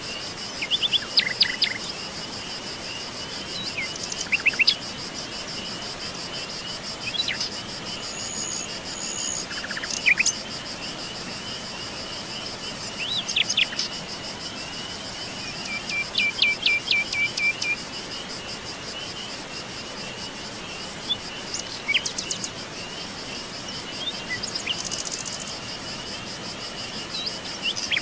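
Scattered bird chirps and whistles, including a short trill about sixteen seconds in, over a steady high-pitched insect chorus.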